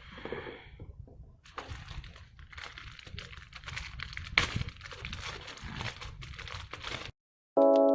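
Crinkling plastic packaging and light clicking of small plastic parts being handled, stopping abruptly. A sustained keyboard music chord comes in just before the end.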